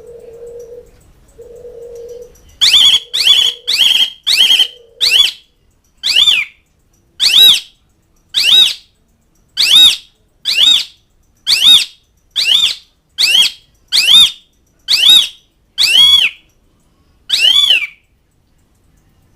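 Jalak suren (pied starling) giving a run of about seventeen loud, harsh, short calls, each arched and falling in pitch. The first five come in quick succession, then they slow to about one a second. A fainter low tone pulses at the start.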